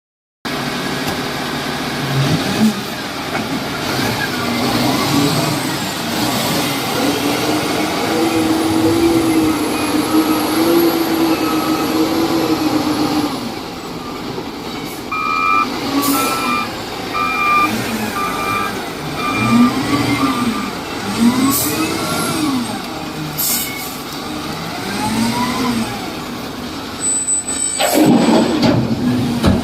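Diesel engine of a LiuGong 848H wheel loader working, its revs rising and falling again and again. A reversing alarm beeps steadily for a few seconds in the middle, and short air hisses come several times, with a loud one near the end.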